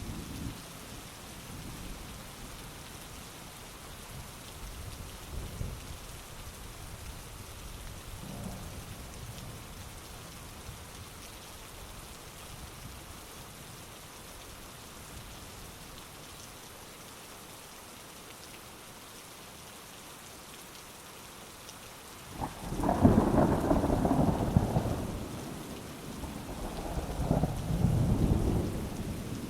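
Steady heavy rain with faint distant thunder at first, then a loud rolling clap of thunder about three quarters of the way through, dying away and swelling again in a second rumble near the end.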